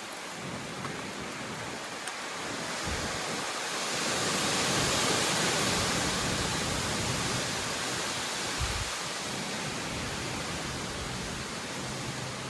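Strong wind of an approaching storm rushing steadily, swelling into a louder gust a few seconds in, with occasional low thumps of wind buffeting the microphone.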